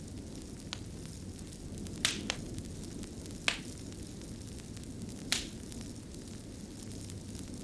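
Fire burning with a steady low rumble and hiss, broken by five sharp crackling pops, the loudest about two and three and a half seconds in.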